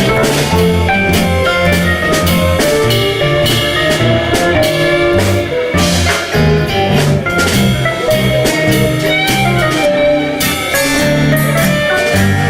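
Instrumental passage of a live band: a melody line over a stepping bass, with guitar and a steady drum beat, and no singing.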